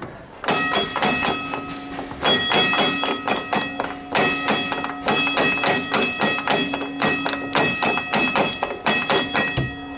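Tram bell struck rapidly over and over, a metallic clanging over a steady ringing tone, in runs of strikes with short breaks between them.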